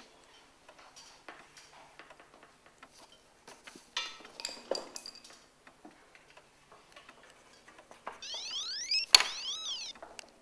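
Quiet room with faint scattered clicks and rustles, then about eight seconds in a mobile phone goes off: an electronic ringtone of rising and zigzagging tones with a sharp click, lasting about two seconds.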